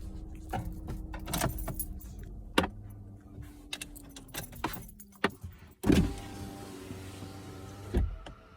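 Car engine idling, heard from inside the cabin, with several sharp clicks and knocks from handling things in the car and a louder thump about six seconds in.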